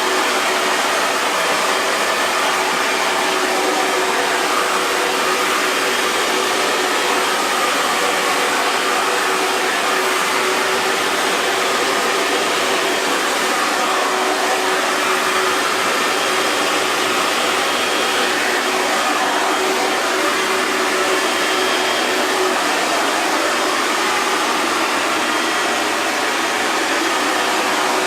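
Electric hair dryer running steadily: an even, unbroken blowing hiss with a faint steady hum of its motor.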